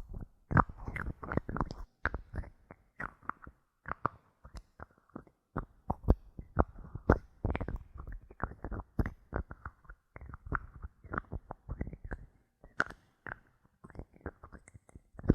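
Bottle caps being tapped and clicked close to the microphone: a dense run of small clicks and knocks, several a second, broken by a few short pauses.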